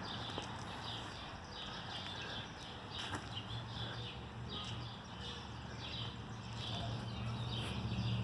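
A bird chirping repeatedly outdoors, about two short high chirps a second, over a low hum that grows louder near the end.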